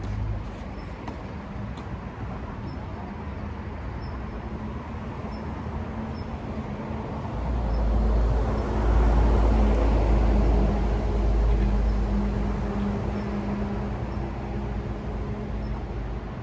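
Road traffic: a steady vehicle hum, with a deep engine rumble that swells about seven seconds in and slowly fades, like a vehicle passing close by.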